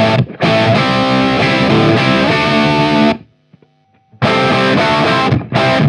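Distorted electric guitar through an overdriven tube amp circuit, playing sustained ringing chords. They cut off about three seconds in and start again a second later.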